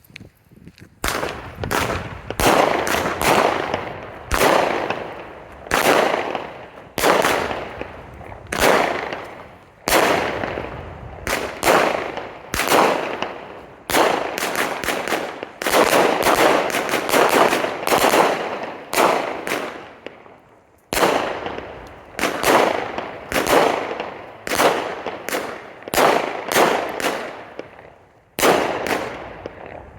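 A 100-shot 500-gram firework cake firing in rapid succession, starting about a second in: sharp shot after shot, roughly one or two a second, each followed by a crackling break that fades away.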